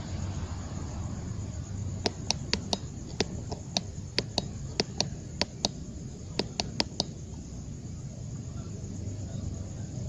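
A run of about sixteen sharp clicks or taps, irregularly spaced in two clusters, starting about two seconds in and stopping about two seconds later than halfway, over a steady low rumble.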